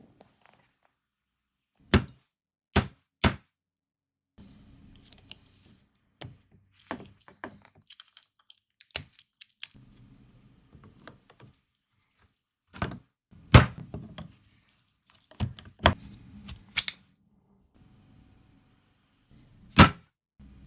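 Scattered sharp knocks and clanks of hand tools and metal parts being struck and handled, with quieter rustling and scraping between them.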